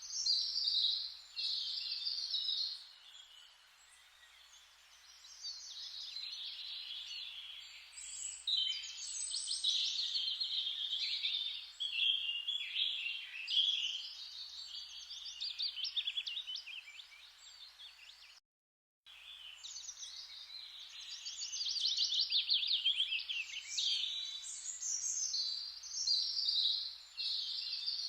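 Forest birds singing: an overlapping chorus of chirps and fast trills that swells and fades, over a faint hiss. The sound cuts out completely for about half a second around eighteen seconds in.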